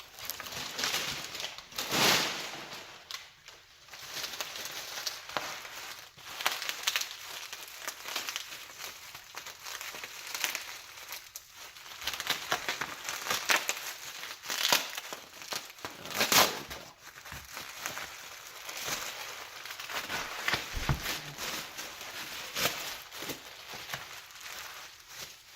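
Plastic packing wrap crinkling and rustling irregularly as it is pulled and handled, with scattered louder crackles.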